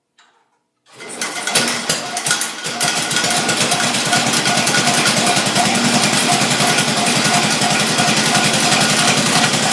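1968 Sears SS12 garden tractor engine starting from cold: it catches about a second in, runs unevenly for a second or two, then settles into a steady, fast run.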